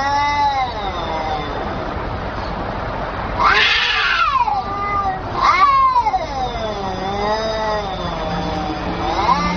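A cat meowing in long, drawn-out yowls, each sliding up and down in pitch. There are about four calls, the longest lasting some three seconds in the second half.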